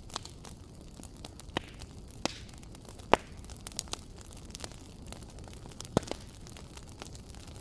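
Wood fire crackling in a fireplace: scattered sharp pops and snaps, the loudest about three seconds in and again about six seconds in, over a steady low hiss.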